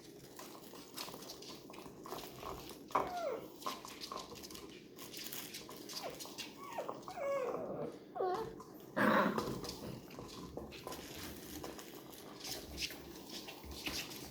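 Labrador puppies whimpering and yipping in short, wavering squeals, with one louder yelp about nine seconds in, among scattered small clicks.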